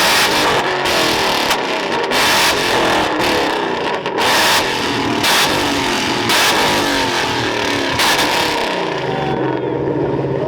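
Car engines revving hard, the pitch climbing and dropping, with a string of sharp, noisy bursts about once a second.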